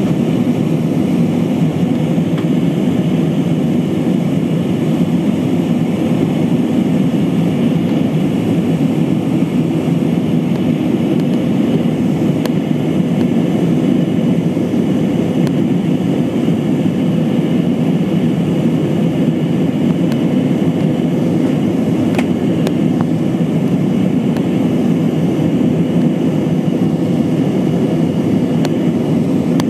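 Steady cabin noise of an Airbus A320-232 in flight, its IAE V2500 turbofan engines and the rush of air along the fuselage making an even, unchanging drone, as heard in the climb after takeoff.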